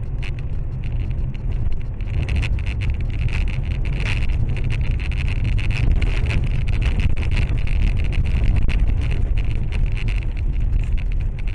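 Steady low road and engine rumble of a moving car as a dashcam inside the cabin picks it up, with many small irregular clicks and rattles over it.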